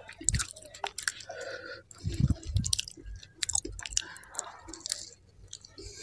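Close-miked chewing of butter naan soaked in kadai paneer gravy, with irregular wet smacks and clicks of the mouth.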